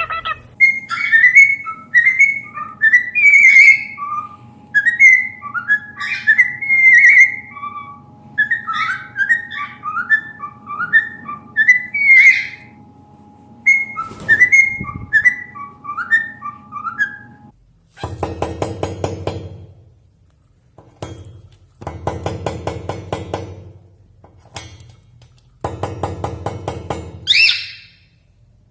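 A pet parrot whistling a long, quick run of short chirpy notes, followed near the end by three longer, harsher calls of about two seconds each.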